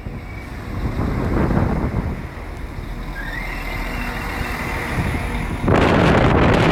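Train at a station platform: a low rumble with a rising whine about three seconds in, then loud wind noise on the microphone for the last second.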